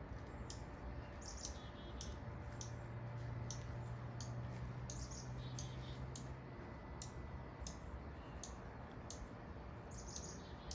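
Small birds chirping: short high chirps repeating about twice a second. A low steady hum runs under them from about two seconds in until about seven seconds in.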